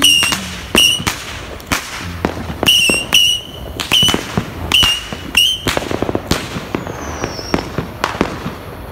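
Fireworks going off: a quick run of short, high whistles, about six in the first six seconds, mixed with sharp cracks and pops. After that come scattered pops, with a faint falling whistle a little after seven seconds.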